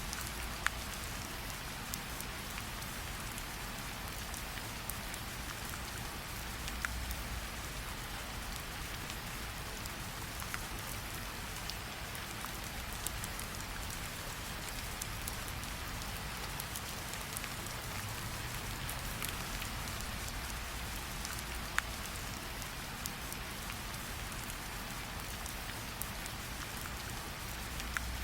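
Steady rain falling, with a few sharp pops of a crackling campfire now and then.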